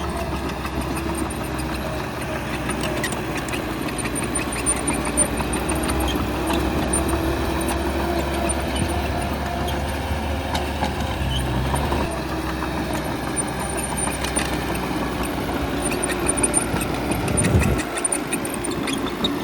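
Bulldozer's diesel engine running steadily while it works, with scattered metallic clanks and knocks.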